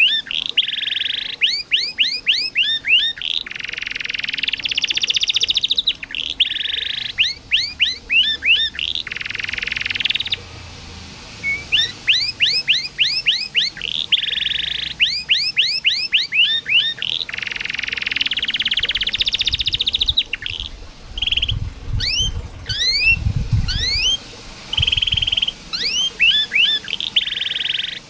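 Domestic canary singing a full song: runs of fast rising chirps, several a second, alternating with long rapid rolled trills. A brief low rumble sounds about two-thirds of the way through.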